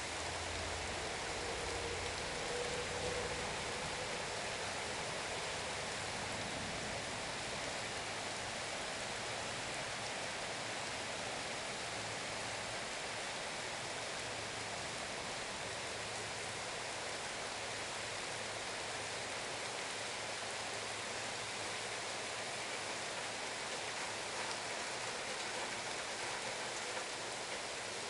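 Steady rain falling in a downpour, an even hiss of drops with no change in strength, and a faint low rumble in the first few seconds.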